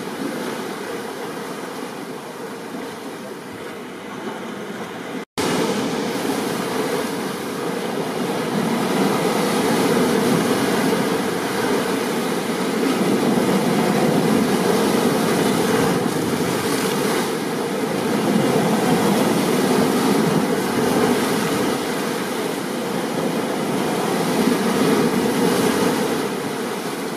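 Stormy surf and rain: a dense, steady rushing noise that swells and eases every few seconds. It cuts out abruptly for an instant a little over five seconds in and comes back louder.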